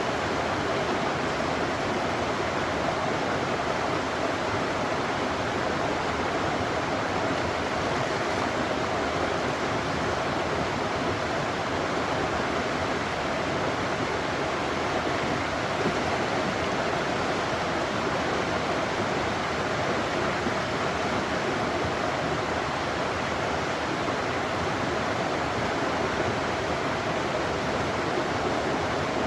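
Flowing river water rushing steadily, with no breaks or changes.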